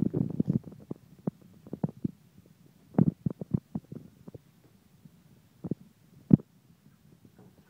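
Irregular soft taps and dull knocks from a mallard duckling moving about in a bathtub. They come in a cluster at the start, another about three seconds in, and a sharper single knock a little after six seconds.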